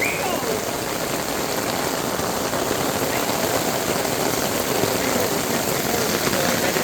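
Heavy rain pouring steadily, a dense even hiss of rain on hard surfaces that grows slightly louder.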